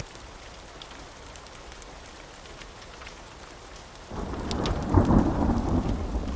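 Steady rain with a few sharp ticks, then a thunderclap rolls in about four seconds in, a loud low rumble that peaks about a second later and keeps rumbling on.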